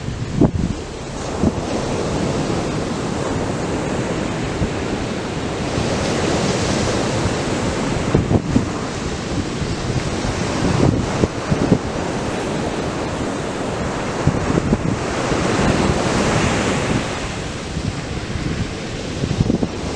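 Atlantic Ocean surf breaking and washing up a sandy beach in a continuous wash, swelling louder twice as bigger waves break, about six and sixteen seconds in. Scattered low thumps of wind buffeting the microphone.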